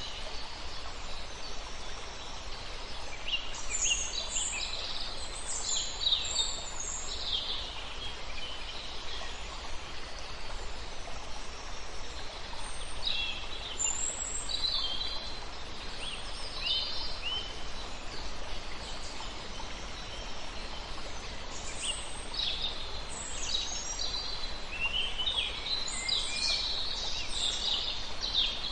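Several songbirds singing in groups of quick high chirps and trills, over the steady rush of a river.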